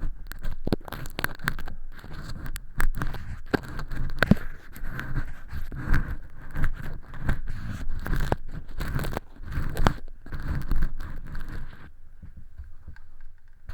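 Close-up earpick scraping and crackling against flaky fake earwax inside a silicone ear canal. It is a run of irregular scratches and sharp clicks that goes quieter about twelve seconds in.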